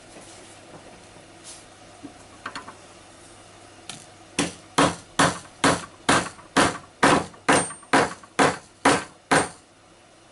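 A dowel being hammered into a freshly drilled hole: about a dozen sharp, even strikes, roughly two a second, starting a little under halfway through.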